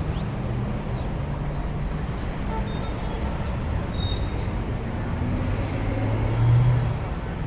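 A vehicle on the move: a steady low rumble with brief high squeaks a couple of seconds in, swelling louder for a moment near the end.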